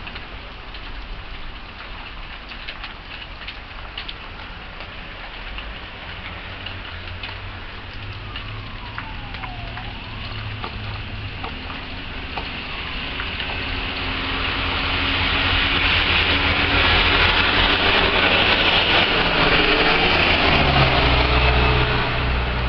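Rain and hail falling, with scattered sharp ticks of hailstones in the first half over a low engine hum of traffic. About two-thirds in, a loud rushing hiss swells up and holds, the sound of traffic on a wet road.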